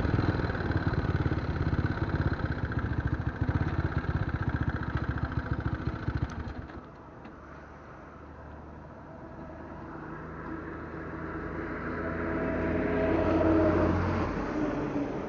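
Scrambler motorcycle on the move, its engine running under heavy wind buffeting, which cuts off abruptly about six and a half seconds in. After that a steady engine hum grows louder, is loudest about thirteen seconds in, then fades.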